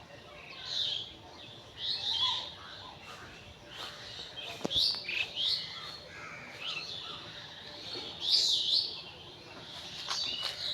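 Birds chirping and calling, a string of short chirps and warbles coming every second or so, with a single sharp click about halfway through.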